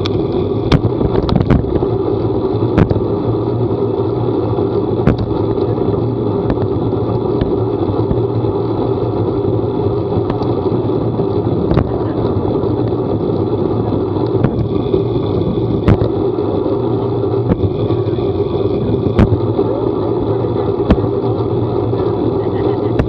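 A vehicle running steadily at a constant pace, with a dozen or so sharp clicks or knocks scattered through it.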